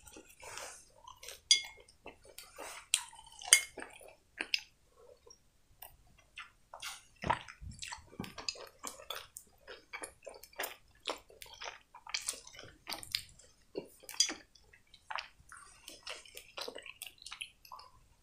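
Close-up wet chewing of a candy: irregular moist mouth clicks and lip smacks.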